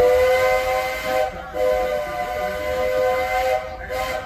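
Steam locomotive's multi-note chime whistle, the whistle from the Roger E. Broggie engine now carried by Walt Disney World Railroad #4 Roy O. Disney, blowing several notes together. It sounds a long blast that breaks briefly about a second in, stops near the end, and starts again just before the end.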